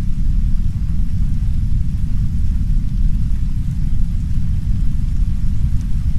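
Heavy brown noise: a steady, deep rumble, with a faint hiss of soft rain against a window on top.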